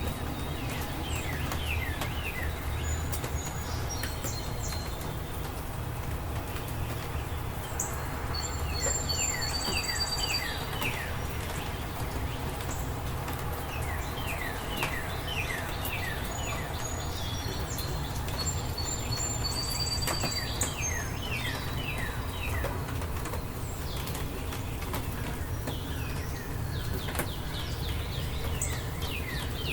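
Steady rain with birds singing over it: repeated runs of quick, falling chirps and higher whistled notes every several seconds.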